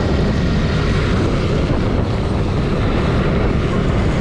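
Steady, loud rumble of wind buffeting the microphone on a moving motorcycle, with no clear engine note standing out.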